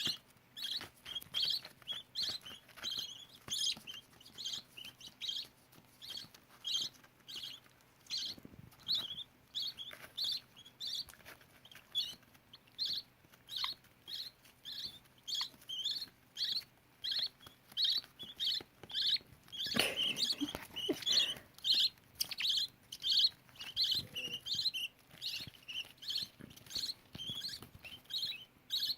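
Budgerigar chicks cheeping: short high peeps repeating steadily about twice a second, with a brief rustling noise about two-thirds of the way through.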